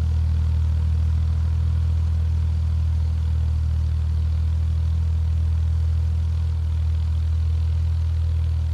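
Tractor engine running at a steady, even speed while pulling a cultivator through the field, a continuous low drone.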